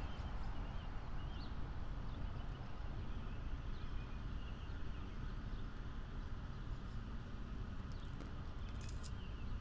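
Small birds chirping faintly over a steady low rumble.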